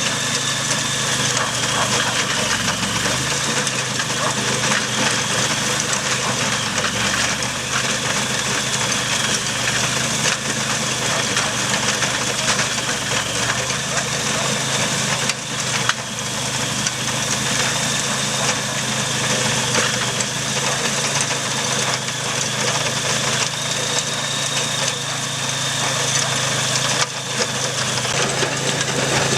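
Walk-behind two-wheel tractor engine running steadily while driving a rotary tiller, with a constant high whine above the engine note.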